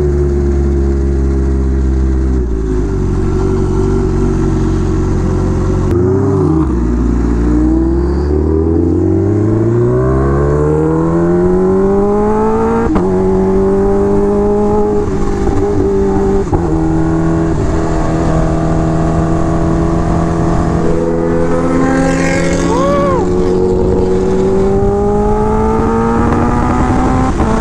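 Kawasaki Ninja H2R motorcycle engine on the move. The revs drop about two seconds in, then climb in a run of rising sweeps through the gears, hold fairly steady at speed, and rise again near the end, over road and wind noise.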